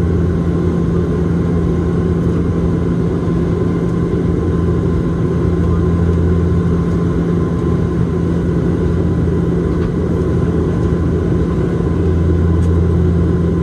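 Steady propeller and engine drone of a Bombardier Dash 8-Q400 turboprop in flight, heard inside the cabin, with a constant low hum under a broad rushing noise.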